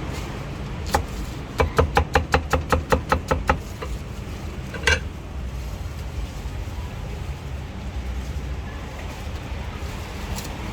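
Rapid cleaver chopping on a cutting board, a quick run of about a dozen strokes at roughly seven a second, with a single chop before it and a ringing knock a little later. Steady traffic rumble underneath.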